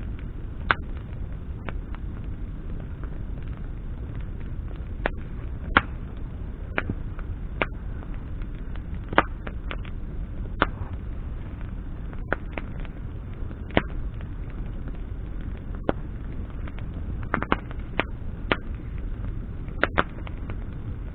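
Wood campfire burning, with sharp, irregular crackles and pops from the burning branches over a steady low rumble.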